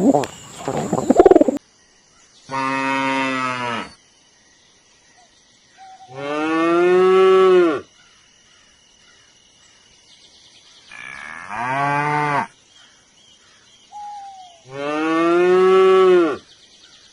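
Cow mooing: four long, drawn-out moos a few seconds apart.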